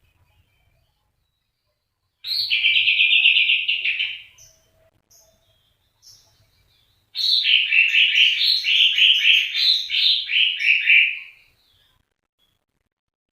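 A bird's song in two bursts of quick, repeated chirps: a short run about two seconds in, then a longer run of chirps from about seven seconds in that stops near the end.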